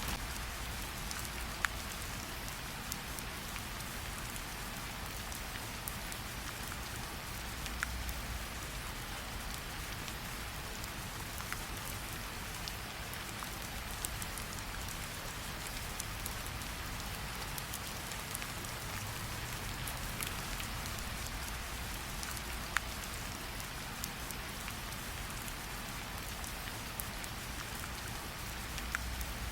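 Steady rain falling, with scattered sharp pops and crackles of a campfire every second or two and a low rumble underneath.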